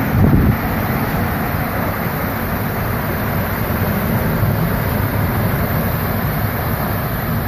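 Strong storm wind rushing steadily against the microphone, with a louder blast just after the start.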